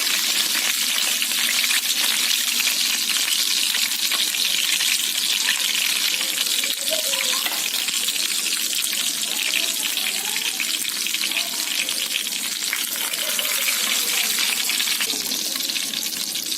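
Chicken lollipops deep-frying in hot oil: a steady, dense crackling sizzle that eases slightly near the end.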